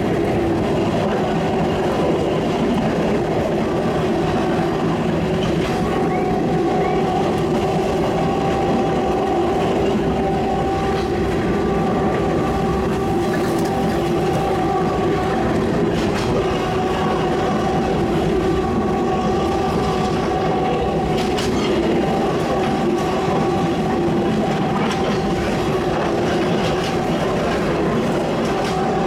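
Ex-Kanto Railway Kiha 350 diesel railcar running at about 60 km/h on rough track, heard from its rear crew cab: a steady rumble with clickety-clack over the rail joints. The locomotive at the head of the train sounds its horn in long blasts, again and again.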